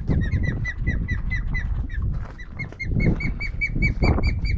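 A bird calling fast runs of short, clear, repeated notes, about six a second, with a brief break about two seconds in, over heavy wind buffeting the microphone.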